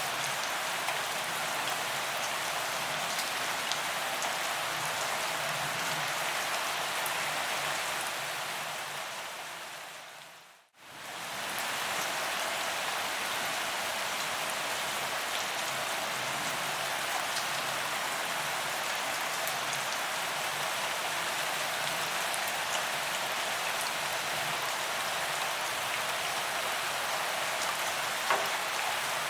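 Steady rain falling on a paved promenade, with scattered sharp drop ticks. About eight seconds in it fades down to silence, then comes straight back at full level.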